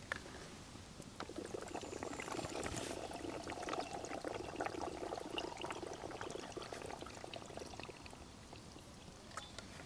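Liquid poured steadily into a vessel, starting about a second in and running about six seconds before tapering off, with a few light clicks around it.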